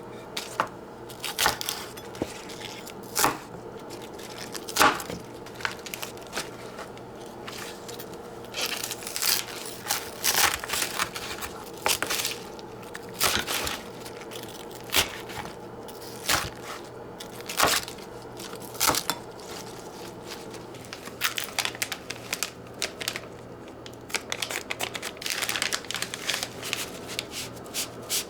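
Irregular crinkling and tearing noises of something being handled, short rustles every second or so, over a steady low hum.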